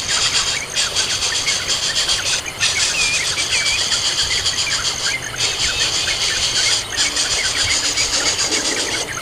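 Dense, high-pitched buzzing chorus that drops out briefly every second or two, with thin scattered chirps over it.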